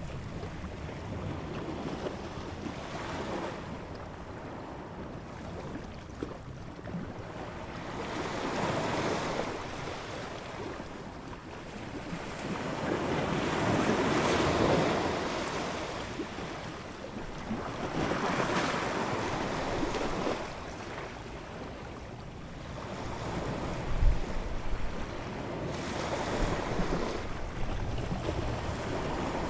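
Ocean waves breaking and washing in, a rushing surge that swells and fades every few seconds, with wind. A brief low thump sounds late on.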